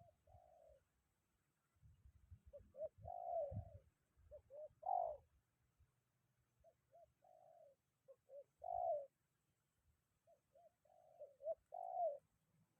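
Spotted dove cooing: its short, rolling three-to-four-note phrase is repeated about every three to four seconds, three full phrases after a partial one at the start.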